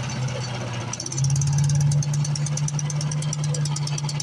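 Predator gas engine on a wood chipper running steadily, its speed and loudness stepping up a little about a second in as the throttle is moved.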